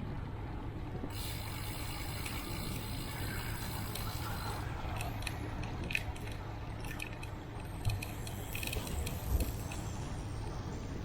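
Bicycle riding along: steady wind and road noise with the bike's drivetrain rattling and clicking, scattered sharp clicks and knocks in the second half.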